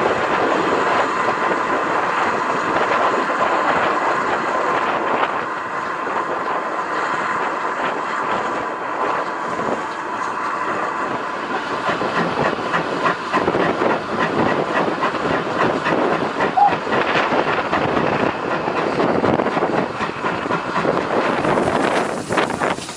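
Heritage train running along the line, its wheels clacking over the rail joints, with a steady ringing tone in the first several seconds and the clacks thicker in the second half.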